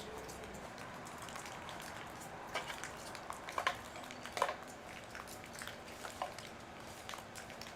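Several light clicks and taps over a faint steady hiss: chainsaw parts and tools being handled.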